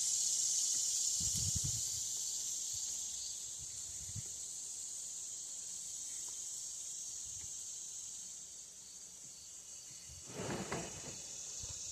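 A steady high-pitched hiss that slowly fades, with a few faint soft knocks.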